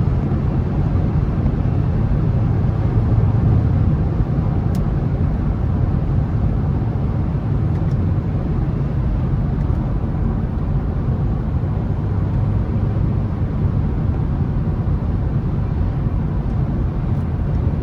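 Audi A5 50 TDI's V6 diesel running at a steady load while driving, heard as an even low rumble of engine and road noise.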